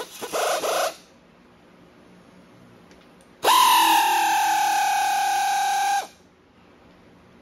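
Hand-held power tool motor whining in two runs: one that cuts off about a second in, and a second of about two and a half seconds starting a little after three seconds, its pitch jumping up at the start and then sagging slightly under load.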